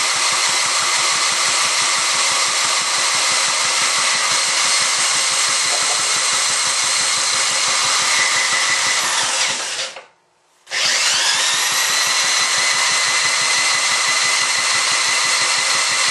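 An electric motor spinning an antique Ironhorse small engine over to crank it. Its whine rises as it spins up, winds down and stops about ten seconds in, then spins up again after a short pause. The engine turns over but does not fire.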